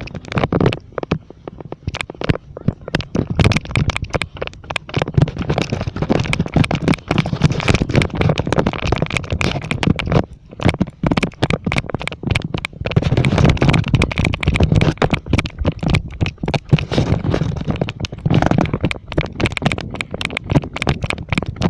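Wind buffeting the phone's microphone in a loud, ragged rumble, with dense crackling handling noise throughout.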